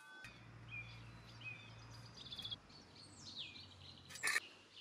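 Faint birds chirping in short calls, with a low hum during the first couple of seconds and one sharp click a little after four seconds in.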